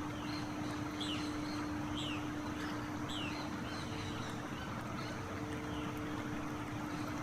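Birds chirping: short falling chirps about once a second, over a steady low hum and a constant hiss.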